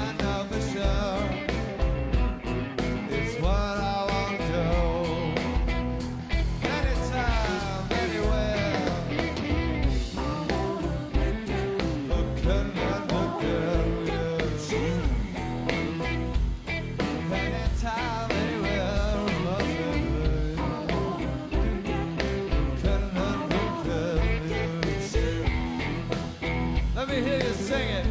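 Live rock band playing a song: steady driving drums, guitars and a singing voice.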